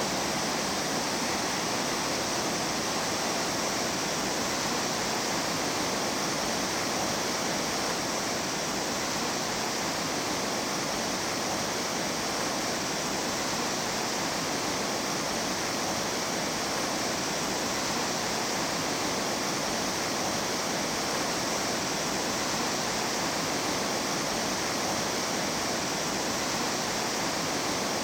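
Mountain stream water rushing, a steady, even wash of sound with no separate splashes or breaks.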